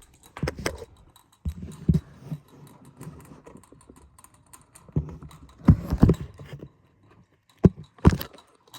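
Irregular clicks, knocks and clattering from handling a plastic snake tub and feeding gear, in several short clusters with quiet gaps between them.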